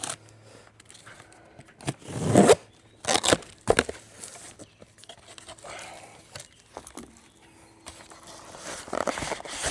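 Cardboard and plastic packaging being torn open and handled in irregular bursts: tearing and crinkling, loudest about two and a half seconds in.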